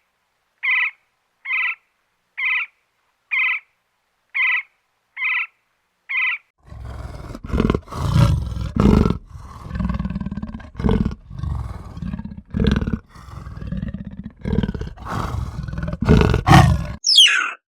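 Animal calls: a short, high call repeated about once a second for the first six seconds. Then a deep, rough roaring in bouts for about ten seconds, the loudest part, ending with a brief squawk that slides in pitch.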